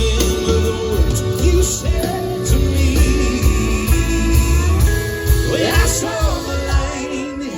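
Live band playing, with a heavy bass line, guitar and a singer's voice over the top.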